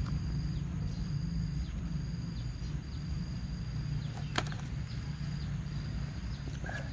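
Outdoor ambience: a high, thin steady tone broken into short phrases about once a second, over a low rumble, with one sharp click about four seconds in.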